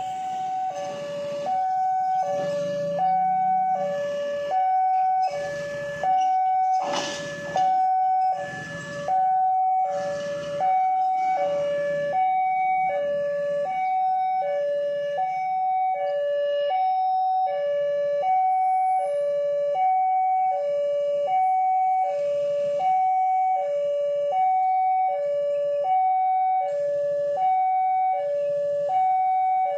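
Emergency vehicle siren sounding a two-tone hi-lo pattern, alternating steadily between a higher and a lower pitch about every three quarters of a second.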